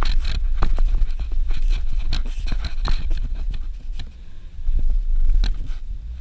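Suzuki Jimny driving on a rough dirt road: a steady low rumble with irregular clatter and crunching of tyres over stones and ruts. It eases for a moment a little past the middle.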